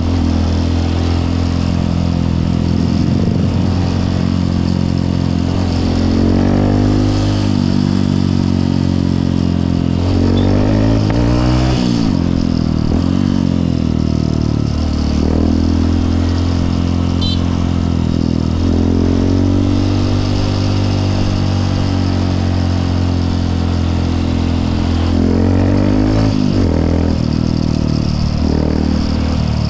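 Honda CRF150L's single-cylinder four-stroke engine running on the move, its pitch climbing and dropping several times as the throttle is opened and eased off.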